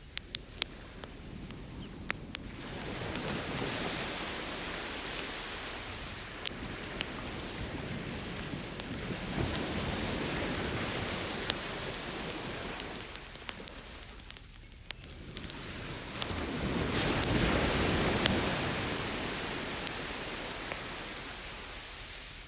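Ocean surf washing in and out in slow swells, the loudest near the end, with scattered sharp pops and crackles from a wood campfire.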